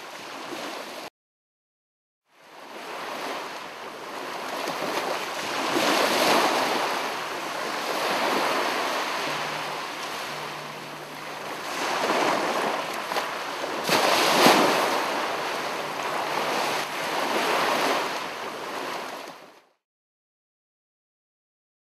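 Ocean waves washing on a shore: a steady rushing hiss that swells and ebbs every few seconds, loudest about two thirds through. It drops out abruptly at about a second in, comes back about a second later, and cuts off suddenly near the end.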